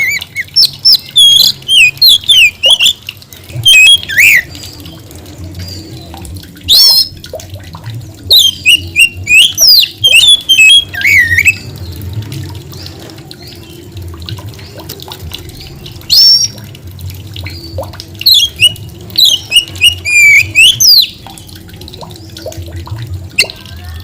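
Oriental magpie-robin (kacer) singing hard in loud bursts of quick, varied whistled and harsh phrases, with pauses of a few seconds between bursts. A faint steady hum lies underneath.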